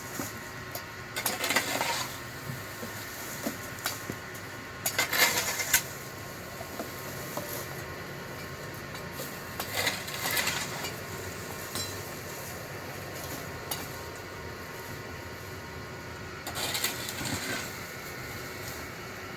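Four short bouts of clattering and clinking, about a second each, spread through a steady low background. The loudest comes about five seconds in.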